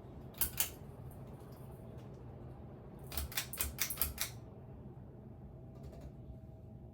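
Two sharp clicks, then a quick run of about seven clicks and taps about three seconds in, over a steady low hum.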